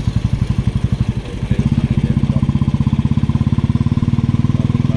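Motorcycle engine running under way, a low, evenly pulsing note that grows louder and steadier about one and a half seconds in.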